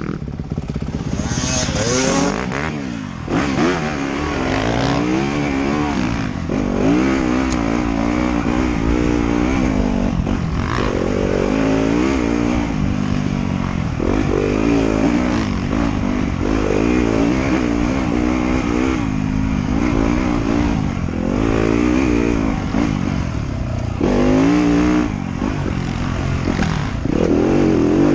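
Motorcycle engine under way, its revs climbing and falling again and again as the throttle is worked.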